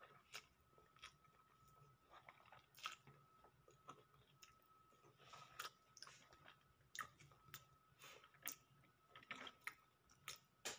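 Faint chewing and mouth clicks of a person eating chicken wings and rice by hand, with short soft smacks scattered irregularly.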